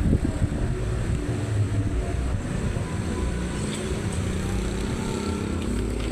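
A motor vehicle engine running steadily over a heavy low rumble of wind on the microphone, with the engine's hum becoming clearer about halfway through.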